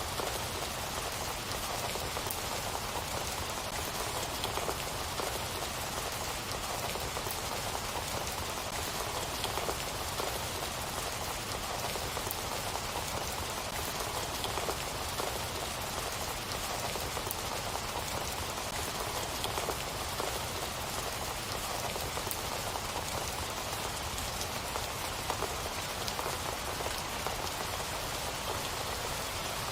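Rain falling steadily, an even hiss with many small drop ticks scattered through it.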